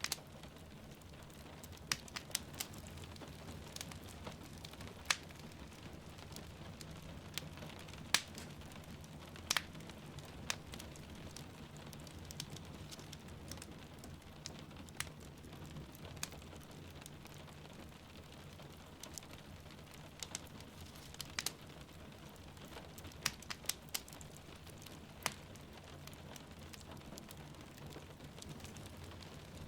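Crackling wood fire with sharp, irregular pops every second or two over a steady soft bed of rain.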